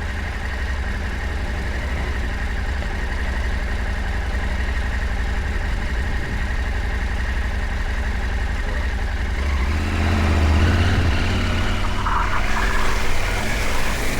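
Parallel-twin adventure motorcycle engine running as the bike is ridden along a rough off-road track, growing louder about ten seconds in.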